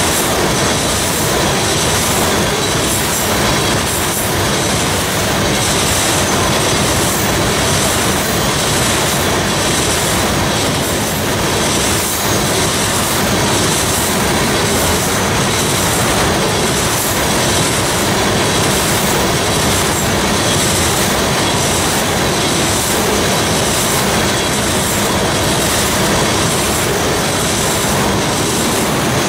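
Loaded railroad tank cars of a freight train rolling past, a steady loud rush of wheels on rail with a regular clickety-clack over the rail joints and a thin, steady wheel squeal.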